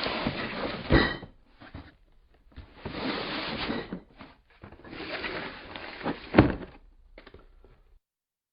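Cardboard beer case of empty glass bottles being handled: three stretches of cardboard flaps scraping and folding, with a sharp knock about a second in that gives a brief glass ring, and a louder knock near six and a half seconds, then a few light clicks.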